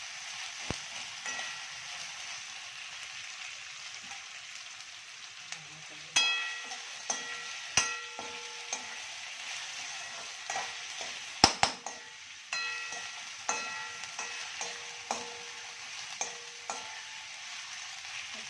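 Onions frying in hot oil with ginger-garlic paste, sizzling steadily, while a metal utensil stirs them and knocks against the pan now and then, some knocks ringing briefly.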